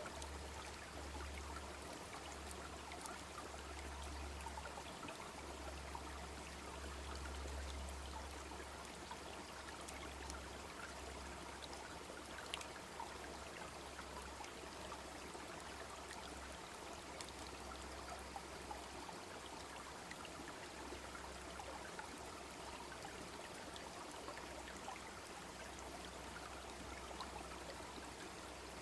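A wood campfire crackling with scattered small pops over the steady rush of a babbling brook.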